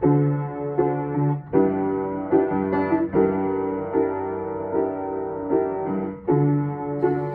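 Solo piano playing the song's accompaniment alone, a repeating pattern of struck chords with a new note roughly every half second. The bass chord changes about a second and a half in and again near the end.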